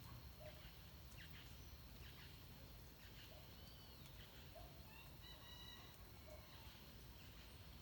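Faint dawn birdsong in Atlantic forest: scattered short chirps and soft low notes, with one longer held call about five seconds in, over a low steady rumble.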